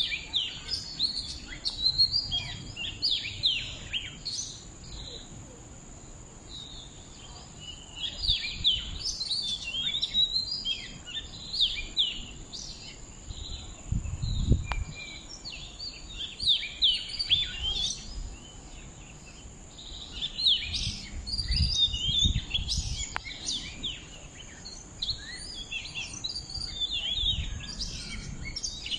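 Wild birds singing: bursts of rapid, high chirping phrases lasting a few seconds each, with short pauses between them. Occasional low rumbles underneath.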